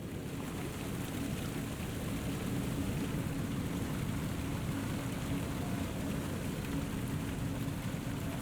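Flowing river water: a steady, low rushing noise.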